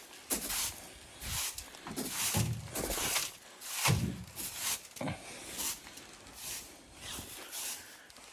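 Footsteps crunching in snow, a step about every half second, a few landing with a heavier thud.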